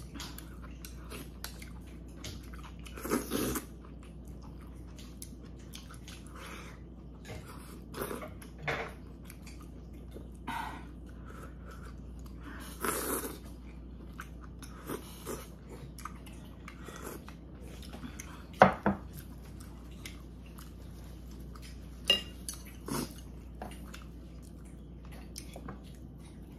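A person chewing spoonfuls of kimchi dumpling and rice cake soup, with scattered clicks and clinks of a spoon and chopsticks against the bowl. The loudest is a sharp click about two-thirds of the way through.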